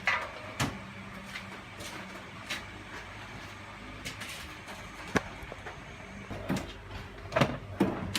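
Scattered clicks and knocks of lathe parts being handled as a straightened feed shaft is refitted into the lathe apron, busiest near the start and again near the end, over a steady background hum.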